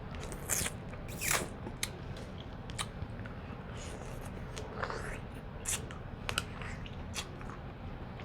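Close-up eating sounds from a seafood boil: shellfish shells cracking and being peeled apart, with chewing, coming as scattered short snaps and crackles.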